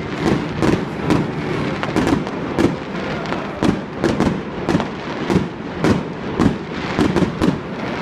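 Aerial fireworks bursting in quick, irregular succession: sharp bangs about two or three a second over a continuous rumble.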